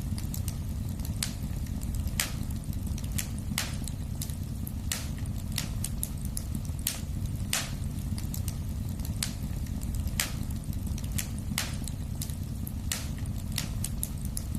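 Wood fire in a fireplace crackling, with sharp pops at irregular intervals, several a second at times, over a steady low rumble of the flames.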